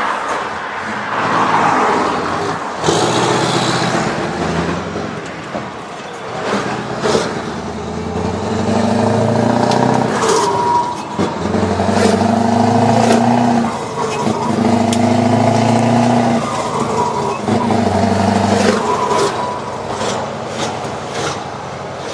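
Scania 4-series 580 V8 truck engine running under load. Its note holds in several pulls of a second or two each, with short breaks between them, and short clicks over the top.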